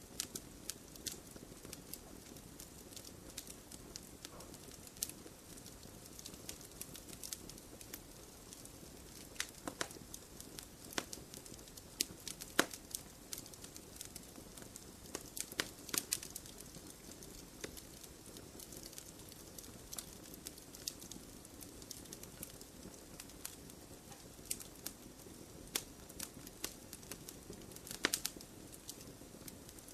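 Wood fire burning in a stone fire pit: a steady low rush of flame with irregular sharp crackles and pops, the loudest about twelve seconds in and again near the end.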